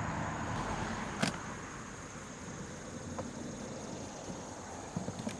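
A car passing on a nearby street, its road noise slowly fading away, with a single sharp click about a second in.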